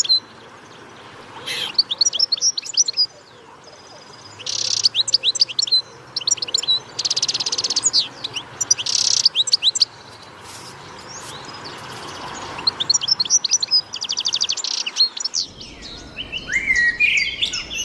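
A songbird singing repeated short phrases: each is a fast buzzy trill followed by a run of quick sweeping chirps, and the phrases come again and again with short pauses. Near the end a different, lower chattering bird call joins in.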